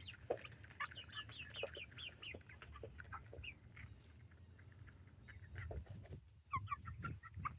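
Chickens clucking and chirping softly, in many short scattered notes, over a steady low rumble.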